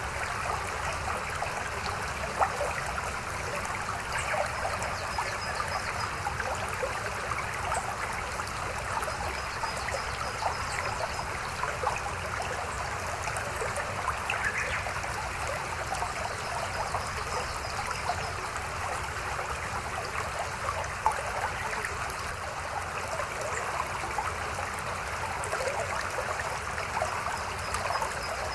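Babbling river flowing steadily: a constant rush of water with many small splashes and gurgles.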